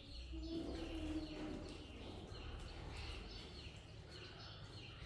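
A bird chirping over and over, with short, high, falling chirps about two a second.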